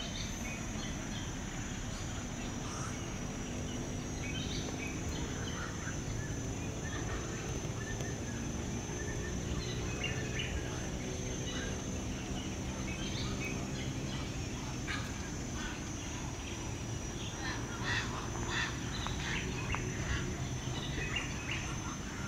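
Wild birds giving short, scattered chirps, more of them near the end, over a steady high-pitched hum and a low background rumble.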